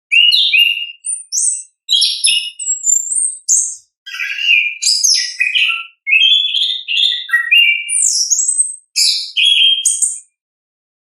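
Chestnut-capped thrush (anis kembang) singing a long, rapid, varied song of clear whistles, slurred glides and chattering notes, with short pauses between phrases. The song ends about a second before the close.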